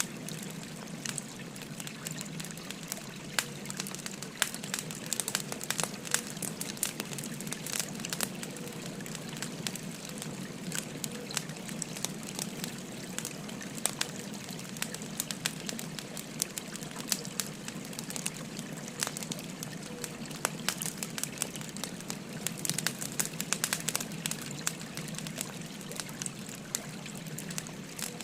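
A wood fire crackling with frequent sharp, irregular pops over the steady babble of a flowing stream.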